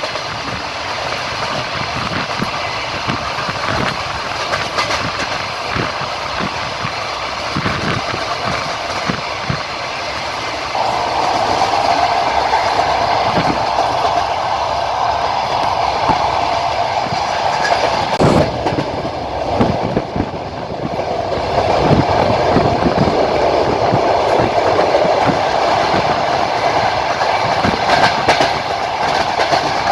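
Wheels of a moving passenger train clattering over the rail joints, heard aboard a carriage: a steady running rumble with repeated knocks. The running noise grows louder about eleven seconds in.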